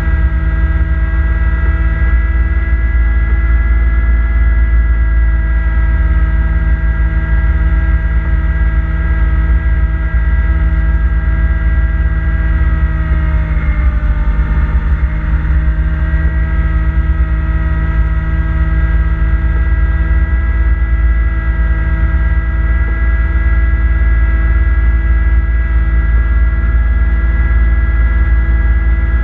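Kubota B2650 compact tractor's three-cylinder diesel engine running steadily at working speed, with a steady whine above it. Partway through, the pitch sags for about two seconds as the engine is loaded down, then comes back up.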